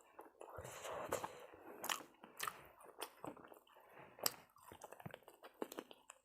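A person chewing and biting food close to the microphone, with irregular sharp crunches and wet smacking sounds.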